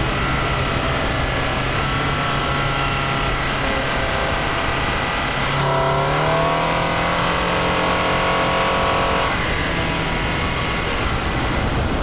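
Toyota Highlander Hybrid's 2.5-litre four-cylinder engine heard from inside the cabin over steady road and tyre noise. It runs at a steady note at first, then about halfway through it comes in louder and climbs in pitch for a few seconds as the car accelerates, before levelling off.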